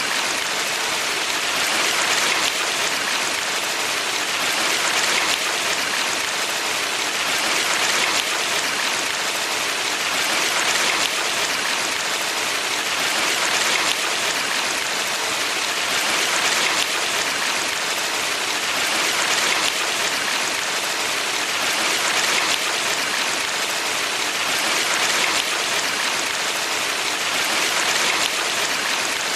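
Valley stream water rushing steadily, its hiss rising and falling gently about every three seconds.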